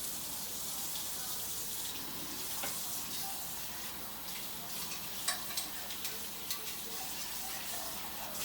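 Water running steadily from a kitchen tap while dishes are washed, with a few light clinks of dishes and utensils in the second half.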